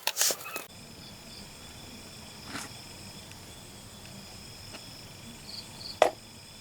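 A brief burst of clattering workshop noise stops in the first second. A faint, steady, high-pitched insect-like chirring background follows, broken by a sharp click about six seconds in.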